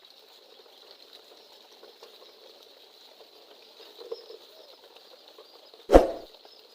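Faint steady background hiss, then a single loud thump about six seconds in.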